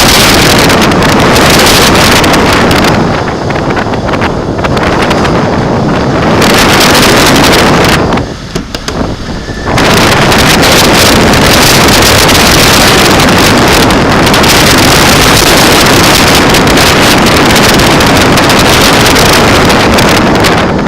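Typhoon-force wind gusting hard, a loud, continuous rushing noise with the wind buffeting the microphone. It eases briefly about eight seconds in, then gusts back up.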